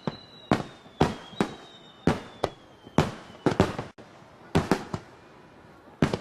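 Aerial fireworks shells bursting in quick, irregular succession: about a dozen sharp bangs, some in close pairs, with a brief lull a little past the middle. A faint high whistle slides slowly down in pitch during the first half.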